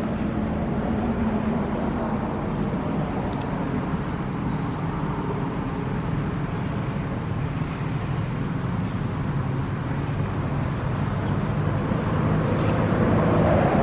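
A steady low drone, like an engine running, over a background of noise, growing slightly louder near the end.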